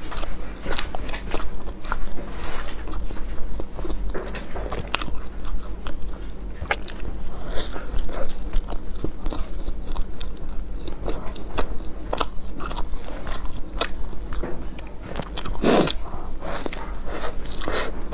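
Close-miked chewing of a soft steamed bun (baozi) with a tofu and glass-noodle filling: a steady run of wet mouth clicks and smacks, with one louder mouth sound a couple of seconds before the end.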